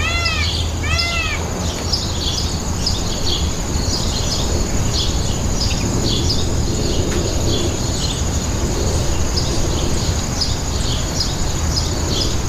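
Peacock giving two quick calls at the start, each rising and falling in pitch, then a chorus of small birds chirping over a steady high-pitched insect drone and a low hum.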